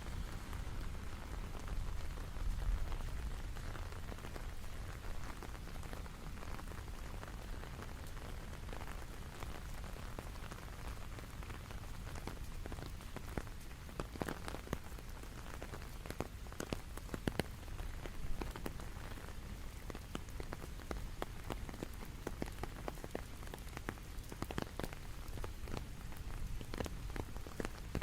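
Rain falling steadily, with many sharp individual drops ticking on a hard surface, the drops thicker from about halfway on.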